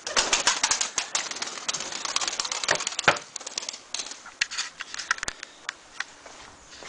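Takla tumbler pigeons moving about: a dense, rapid patter of sharp clicks and scuffles for about three and a half seconds, then only scattered clicks.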